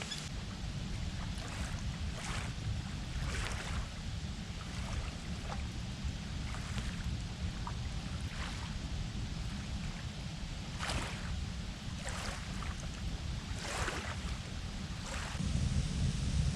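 Campfire crackling, with scattered louder pops over a steady low rumble that grows louder near the end.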